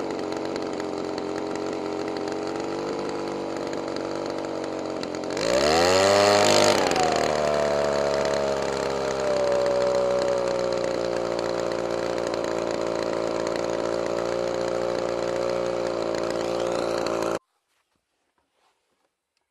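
Small engine running fast and steady, revved sharply once about five seconds in with a rising then falling pitch, then settling to a steady run. The sound cuts off abruptly near the end.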